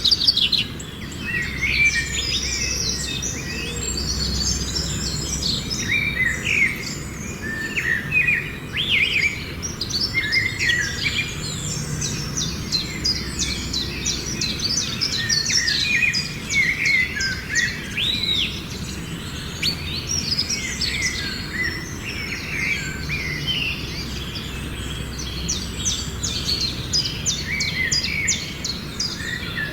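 Birds chirping and singing, many short overlapping calls and trills, over a low steady hum.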